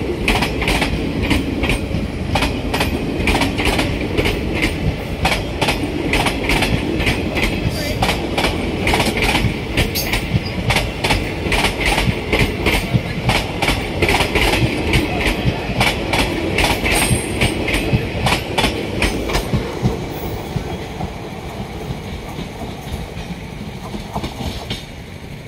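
Passenger coaches of the Durg–Visakhapatnam Express rolling past at speed, their wheels clattering over the rail joints in a rapid, steady clickety-clack over a rumble. The sound fades over the last few seconds as the end of the train passes.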